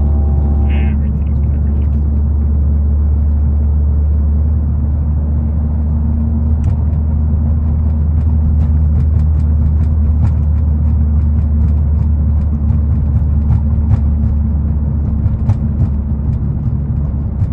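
Volkswagen Mk7 GTI's turbocharged 2.0-litre four-cylinder, fitted with an aftermarket ARM downpipe, running with a loud, steady low exhaust drone.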